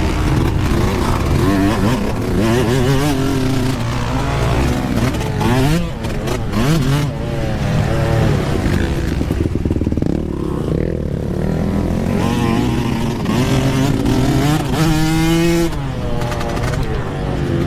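Yamaha YZ125 two-stroke dirt bike engine revving hard. Its pitch repeatedly climbs and falls back as the throttle is worked on and off around the track.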